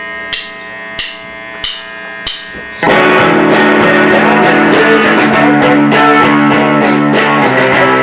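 Live rock band starting a song. A held guitar chord rings under four evenly spaced sharp taps, about one and a half a second. About three seconds in, the full band comes in loud with electric guitar, bass and drum kit.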